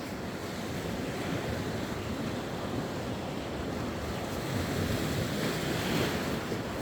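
Sea waves washing onto the shore, a steady surf wash that swells slightly near the end, with some wind buffeting the microphone.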